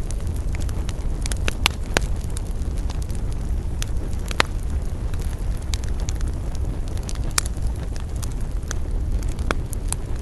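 Wood campfire burning, with irregular sharp crackles and pops over a steady low rumble from the flames and wind.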